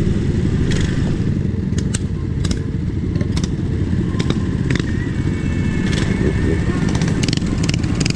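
Wind buffeting a rider's microphone and road rumble while riding an electric scooter at speed, a steady low rushing with a dozen or so sharp clicks and rattles from bumps.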